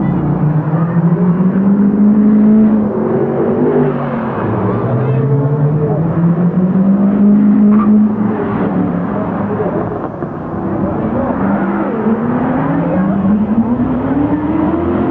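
Koenigsegg CC8S V8 accelerating through the gears: the engine note climbs, drops at each upshift, and climbs again several times.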